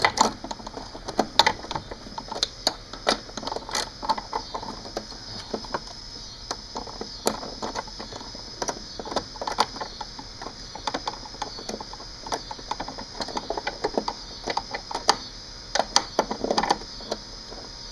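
Socket ratchet clicking in quick runs as a nut is backed off by hand.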